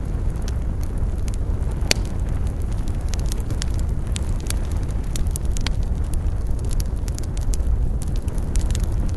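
Wood campfire burning: a steady low rumble of flames with frequent sharp crackles and pops, one louder pop about two seconds in.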